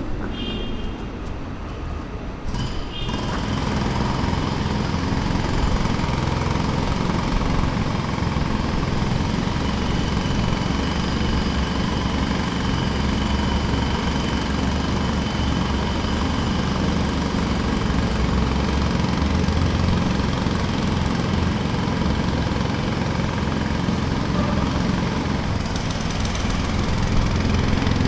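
Jackhammer hammering steadily, louder from about three seconds in.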